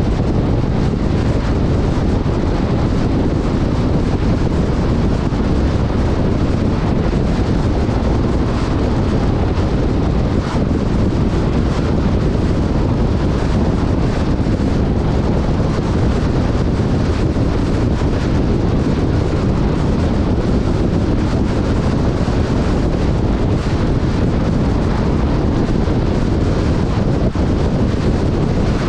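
Steady wind buffeting the microphone of a camera on a moving off-road vehicle, mixed with the vehicle running.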